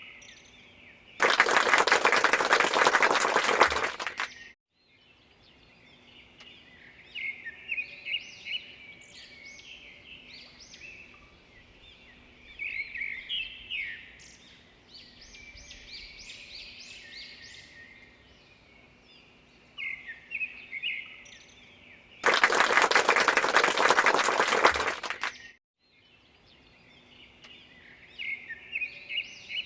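Birds chirping in short, repeated phrases, with a loud rushing noise lasting about three seconds twice, about a second in and again about two-thirds of the way through.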